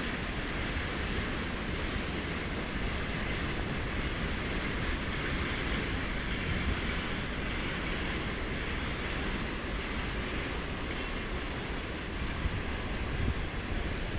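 Freight train of tank cars rolling past: a steady, even rumble of wheels on rails with a few faint clicks.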